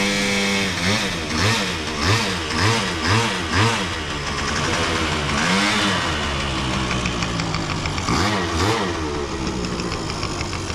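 An engine revved in quick repeated blips, its pitch rising and falling with each, about seven in the first four seconds. It then runs more steadily and is blipped twice more near the end.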